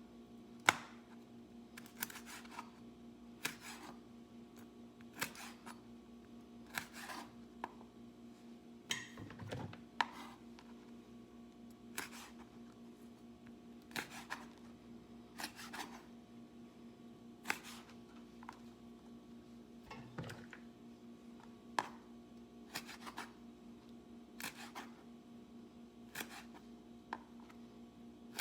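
Knife chopping the toes off raw chicken feet on a cutting board: sharp single chops about every second and a half, now and then two close together, over a steady low hum.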